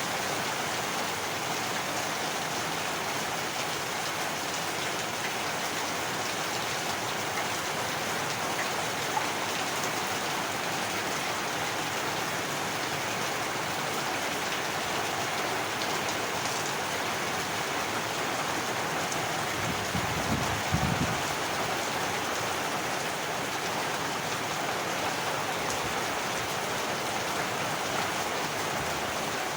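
Steady heavy rain falling, an even hiss of drops. About two-thirds of the way through there is a brief low thump.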